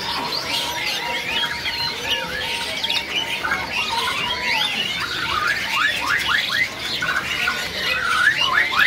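Many caged birds calling at once: a dense mix of chirps and squawks, overlapping, with a run of quick, sharp falling calls in the last few seconds.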